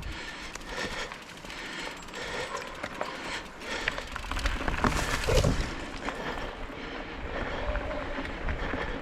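Fat-tyre bicycle rolling along a dirt forest trail: tyre noise over the ground with frequent small clicks and rattles, over an uneven low rumble.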